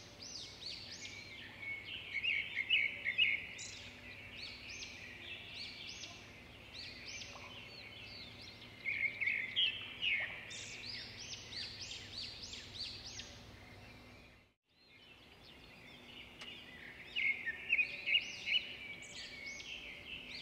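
Small birds chirping in quick runs of short, high notes, with louder flurries near the start, in the middle and near the end, over a faint steady low hum. The sound cuts out for a moment about two-thirds of the way through.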